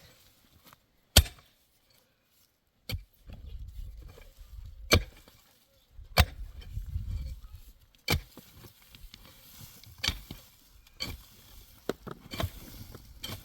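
A series of sharp knocks or taps, irregularly about one to two seconds apart, over a low rumble.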